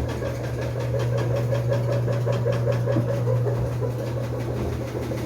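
Electrolux washing machine running its spin cycle: a steady low hum with a fast, even knocking rhythm over it. This is the excessive spin noise of worn-out suspension rods that have too much play to hold the drum.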